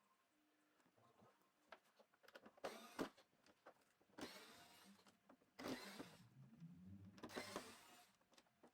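Small electric screwdriver motor whirring in four short spells, one of them rising in pitch, with clicks of screws and plastic parts being handled, as the TV's back cover comes off.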